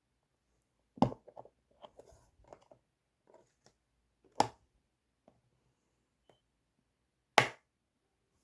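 Photocard packing sounds: a card and plastic packing sleeves being handled, with three sharp snaps or taps about three seconds apart and light crinkling for a couple of seconds after the first.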